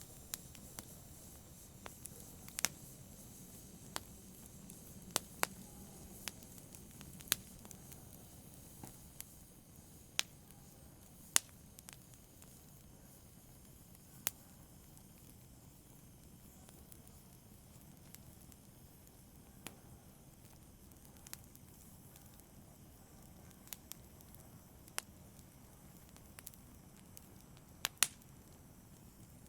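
Campfire burning softly, with a low steady hiss and irregular sharp crackles and pops from the burning wood every second or two.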